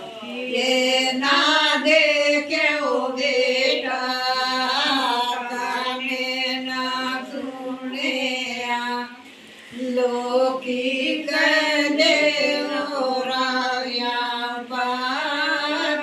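A voice singing a slow song unaccompanied, with long held notes that waver in pitch; it breaks off briefly about nine seconds in and then goes on.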